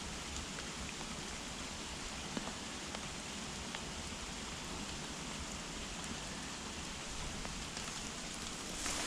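Rain falling steadily: an even hiss with scattered ticks of single drops.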